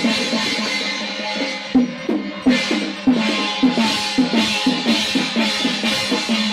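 Chinese temple percussion ensemble: drums with gongs and cymbals playing a fast, continuous beat for a temple consecration rite.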